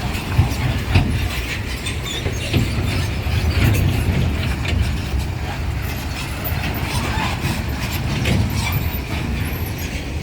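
Heavy truck engine running with a steady low rumble under load, with repeated knocks and rattles throughout.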